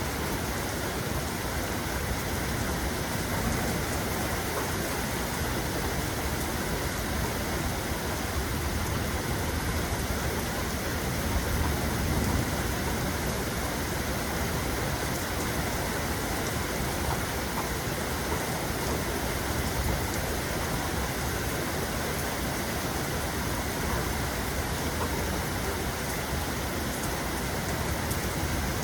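Steady rain falling in an even wash, with a brief low rumble of thunder near the middle.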